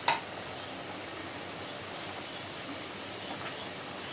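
Chicken livers cooking in an aluminium pot with a steady, soft sizzle, opened by a single sharp click.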